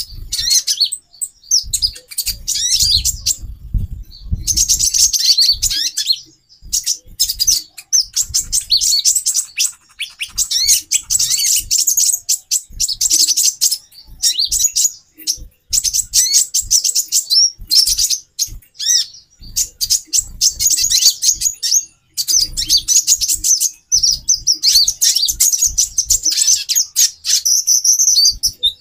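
Female konin (kolibri ninja) sunbirds calling busily: rapid, thin, high chirps in bursts of a few seconds, broken by short pauses, with faint low thumps underneath.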